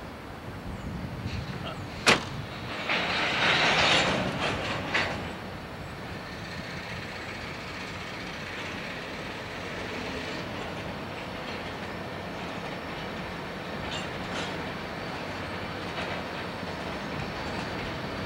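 Diesel freight locomotives running as they approach at low speed, a steady rumble with wheels on rail. A sharp knock comes about two seconds in, followed by a loud rush of noise lasting about a second and a half and a shorter one just after.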